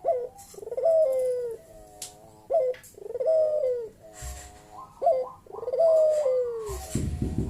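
Puter dove (domestic ringneck dove) cooing loudly and repeatedly, each phrase a short rising note followed by a long falling coo: the 'bekur' call used as a lure to set other doves calling. Near the end a low, even rumble comes in underneath.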